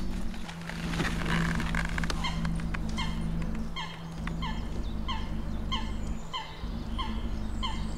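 A bird repeats a short call about twice a second from about two seconds in, over a steady low hum. Before the calls begin there is rustling and a few clicks as a fabric carp weigh sling is handled.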